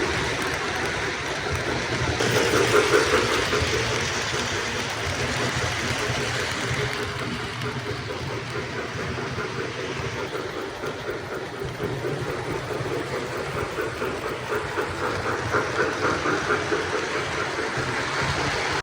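A train running on the rails: a steady rumble with rapid rhythmic clatter, swelling about two to three seconds in and again near the end.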